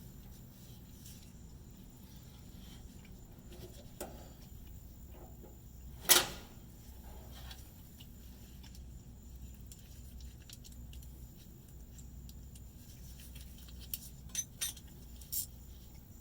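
Metal clinks and clicks of hand tools and parts being handled: one sharp, loud clank about six seconds in, then a quick cluster of lighter clicks near the end.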